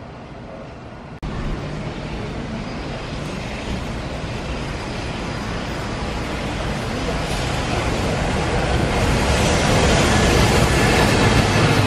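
JR Freight EF210 electric locomotive (EF210-153) approaching on a container freight train, its running noise growing steadily louder as it nears. The sound starts abruptly about a second in, after a short stretch of quieter station background.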